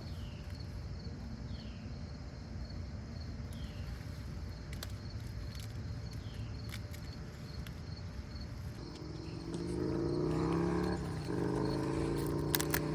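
Insects chirping faintly over a low outdoor rumble; about nine seconds in, an engine's hum comes in and grows louder.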